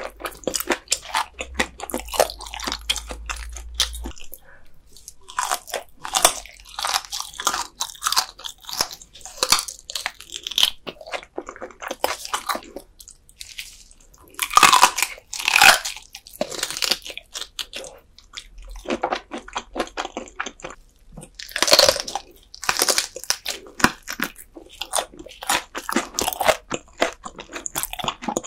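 Close-miked crunching and chewing of raw dotted gizzard shad sashimi eaten bones and all, the small fish bones crackling between the teeth in irregular bites, with a short pause a little before halfway.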